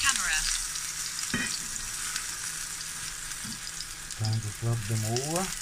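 Mushroom slices sizzling in hot oil in a non-stick frying pan as a metal fork turns them over, with a sharp tap of the fork on the pan about a second in. A brief low hum near the end.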